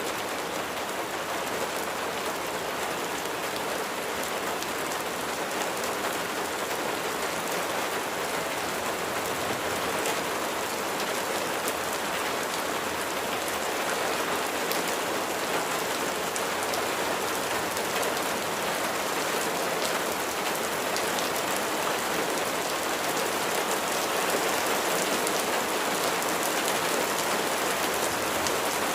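Steady rain falling, with dense pattering of raindrops on a surface.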